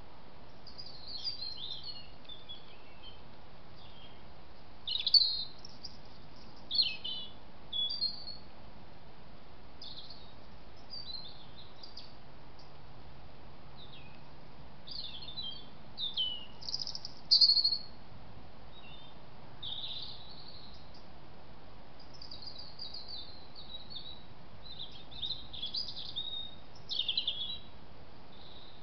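Songbirds singing short chirping phrases on and off, over a steady background hiss.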